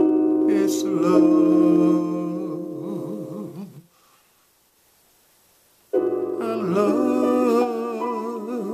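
Music: sustained electric keyboard chords with a wavering vibrato, breaking off for about two seconds in the middle before another chord comes in.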